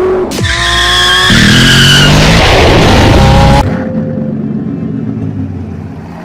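High-revving sports-car engine sound in a few quickly cut clips. The pitch rises under acceleration, then a loud rushing blast cuts off suddenly about three and a half seconds in, and a quieter engine sound fades away after it.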